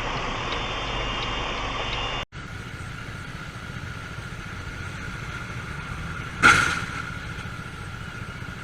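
Steady car engine and road noise, broken by an abrupt cut about two seconds in, then continuing more quietly with a short, louder sound about six and a half seconds in.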